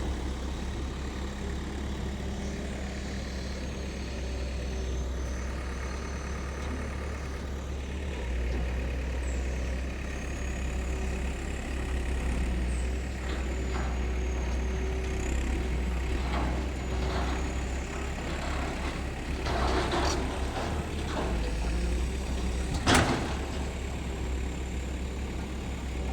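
Diesel engines of a Sany 220 excavator and a JCB 4DX backhoe loader running under load, pulling a stuck dump truck out of a drain: a steady deep drone with a few short noisy bursts. A single sharp knock near the end.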